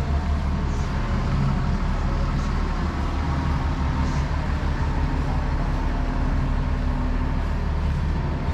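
Steady low hum of a vehicle engine running, with the rumble of city traffic.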